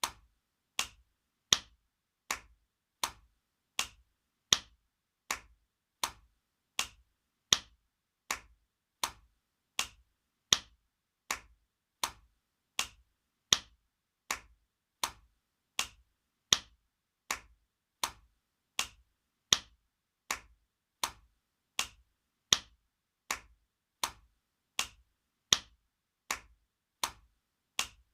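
Spanking sound effect: a sharp hand slap repeated at an even pace, a little more than one a second, with silence between the slaps.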